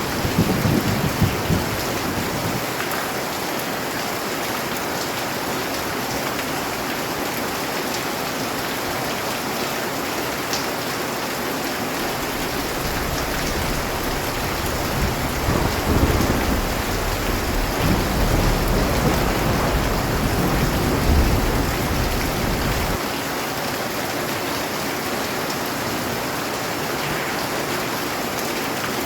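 Steady heavy rain, with low rumbles of thunder in the first couple of seconds and again through the middle, the second rumble stopping abruptly about three-quarters of the way through.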